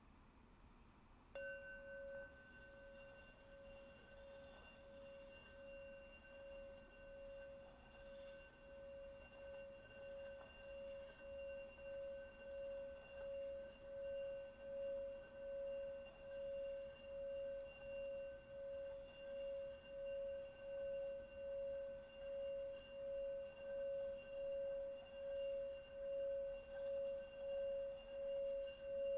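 Singing bowl struck once about a second in, then kept ringing as one constant tone with fainter higher overtones. The tone slowly grows louder, with a regular wavering pulse of a little under a second, as the rim is played to sustain it.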